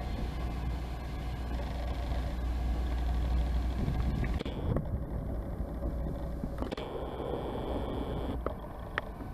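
Train engine running with a steady low rumble; the sound changes abruptly about four and a half seconds in and again near seven seconds, with a couple of small clicks near the end.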